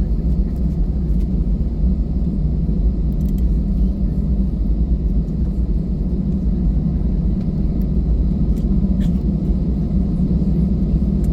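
Steady low rumble of a jet airliner's engines and airflow, heard from inside the passenger cabin, with a faint tick about nine seconds in.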